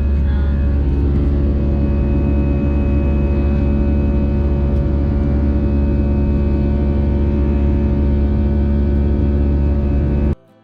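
Steady drone of an Airbus A320-200 cabin, the engine and airflow noise holding a strong low hum with several steady tones over it. It cuts off suddenly near the end.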